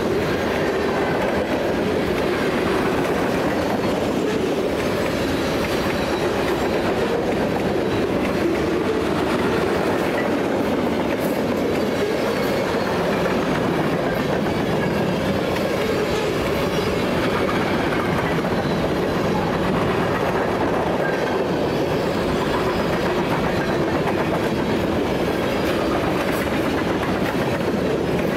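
Freight train cars (boxcars, tank cars, covered hoppers and a centerbeam lumber car) rolling past close by: a steady, unbroken rumble of steel wheels on rail.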